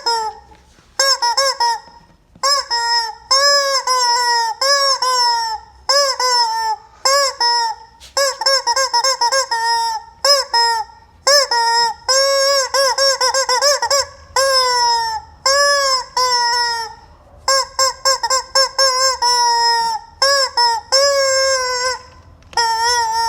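Rubber chicken squeaky toy squawking over and over as it is squeezed, a string of loud honking squeals, some short and some drawn out, with brief gaps between them.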